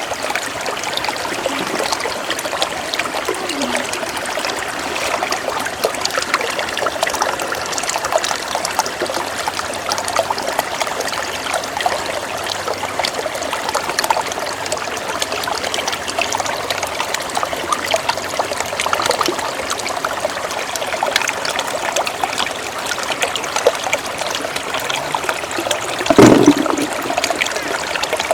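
Shallow floodwater running and trickling steadily, with one brief louder splash about two seconds before the end.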